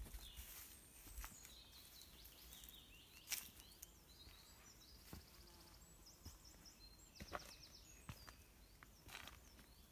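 Faint woodland birdsong: high chirps and quick trills, the clearest trills about halfway through and again after seven seconds, over a low outdoor hush, with a few short sharp clicks, the loudest a little after three seconds in.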